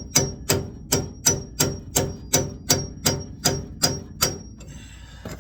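Rapid hammer blows on a steel pickle fork, about three a second with a short metallic ring on each, driving the fork in to separate the idler arm's tapered stud from the steering linkage. The blows stop near the end.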